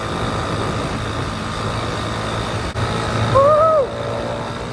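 Honda C70 Cub's small four-stroke single-cylinder engine running steadily under way, with wind and road noise. A short pitched sound that rises then falls cuts in loudly a bit over three seconds in.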